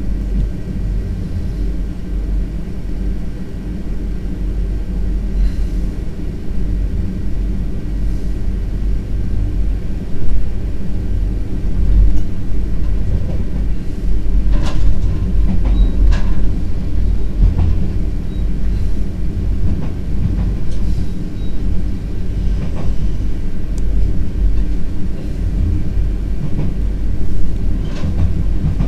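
VIRM double-deck electric train running along the track, heard from its rear driving cab: a steady low rumble that grows a little louder about twelve seconds in. A few sharp clicks from the wheels crossing rail joints or points come about halfway through and near the end.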